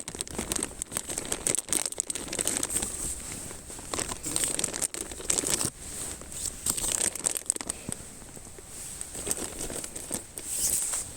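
Crinkly material being handled: irregular bursts of crinkling and rustling with many small clicks.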